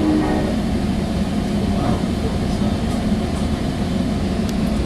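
Steady rumble inside a Sounder commuter rail coach as the train runs along the track, with a brief tone right at the start.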